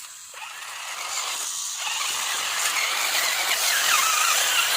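Small electric motor and gearbox of a toy 4WD RC rock crawler whining as it drives, getting louder over the first two seconds, the whine wavering in pitch as the throttle changes.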